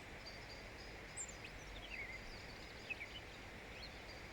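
European robin singing faintly: thin, high notes with several quick falling slurs, in short scattered phrases.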